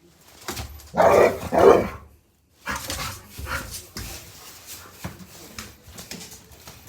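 Labrador retriever barking twice in quick succession about a second in, two loud short barks, followed by quieter scattered knocks and rustling.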